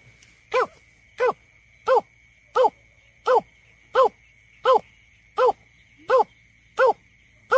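Greater painted-snipe calling: a steady series of short, hollow, arched hoots, about three every two seconds, from a lure playback recording. A faint steady high tone runs underneath.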